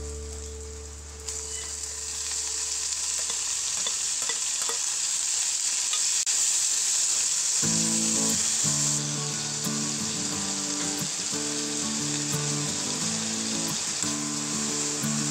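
Chopped tomatoes dropped into hot oil in a non-stick kadai, sizzling loudly from about a second in as the water in them hits the oil, with a spatula stirring them through the pan. Background music with steady notes comes in about halfway.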